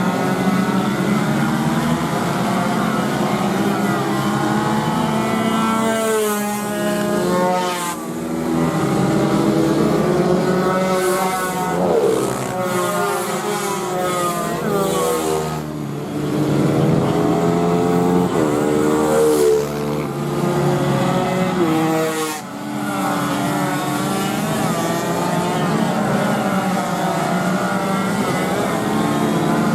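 Small racing motorcycle engines running hard. Their pitch climbs repeatedly through the gears and drops away again, and at times more than one engine is heard at once.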